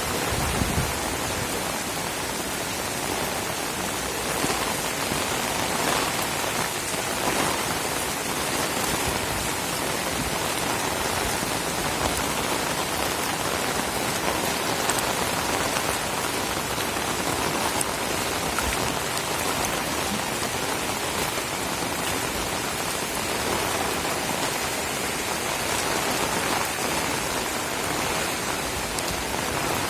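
Heavy rain falling steadily, an even, dense hiss of drops striking surfaces.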